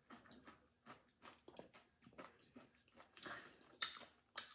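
Faint chewing with scattered small crunches and clicks of crunchy food being eaten.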